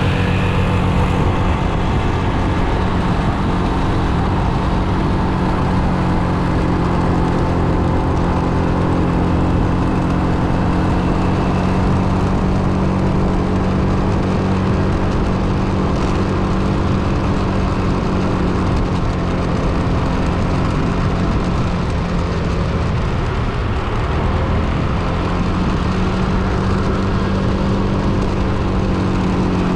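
Motor vehicle engine running steadily while driving, with a steady hum of road noise. About three-quarters of the way through, the engine note drops, as when slowing down, then picks up again.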